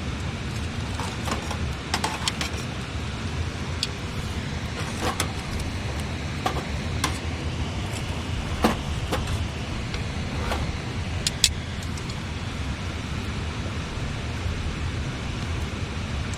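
Campfire of burning wood crackling with scattered sharp pops, the loudest about two thirds of the way through, over the steady rush of a flowing river.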